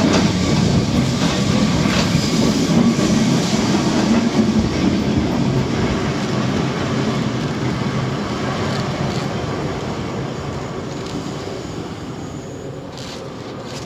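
Historic Lisbon Tram 28 tram running on its rails: a steady rattling rumble of wheels on track that grows quieter over the second half as the tram eases off.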